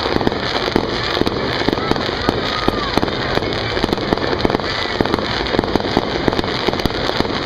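Aerial fireworks bursting overhead in a dense, steady barrage of rapid pops and crackles.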